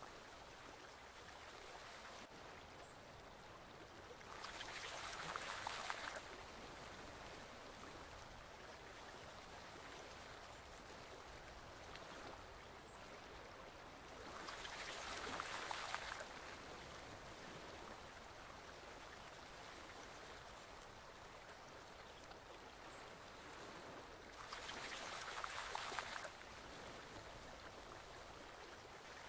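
Stream water flowing steadily, with a louder surge of rushing water three times, about ten seconds apart. Each surge lasts about two seconds and cuts off abruptly.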